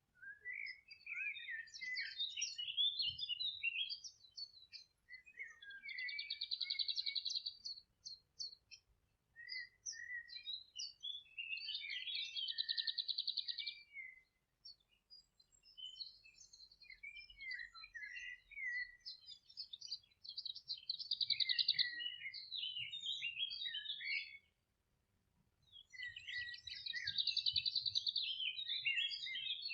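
Songbirds singing in phrases of a few seconds with short pauses between them, several phrases ending in a fast, buzzy trill.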